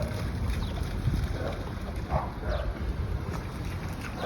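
Wind rumbling on the microphone, with a few faint short sounds about two seconds in.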